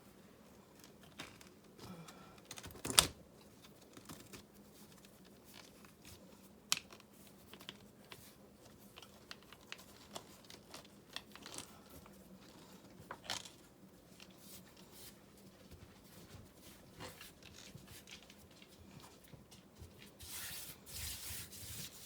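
Scattered small clicks and knocks, a sharp one about three seconds in, then a couple of seconds of crinkling and rustling near the end.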